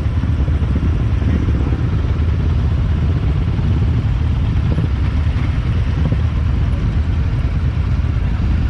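Motorcycle engine running steadily: a continuous low rumble with no breaks or changes in pitch.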